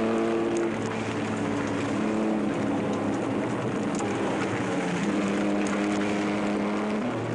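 Rally car engine running hard at high revs over road and tyre noise. Its pitch holds for a second or two, then shifts up or down as the revs change.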